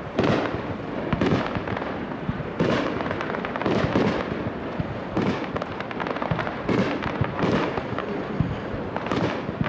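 Aerial firework shells bursting one after another, about one a second, each bang trailing off over a steady rumble of the display.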